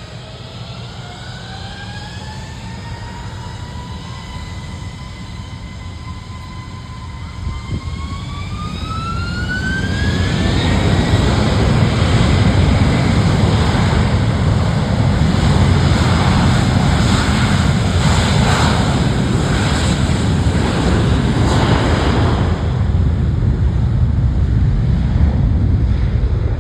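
Airbus A321 jet engines spooling up for takeoff. A whine rises and holds, then climbs again about eight to ten seconds in as takeoff thrust is set. The sound then swells into a loud, steady low rumble with a hiss on top.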